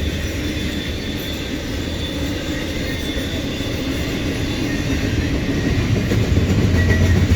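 Norfolk Southern intermodal freight train's cars rolling past, a steady rumble of steel wheels on rail.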